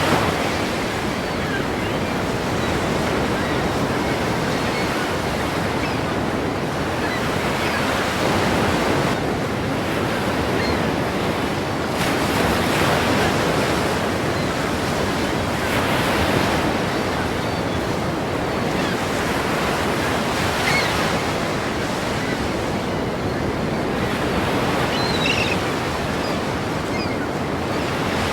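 Ocean surf breaking against a pier: a continuous rush of water that swells with each breaking wave every few seconds.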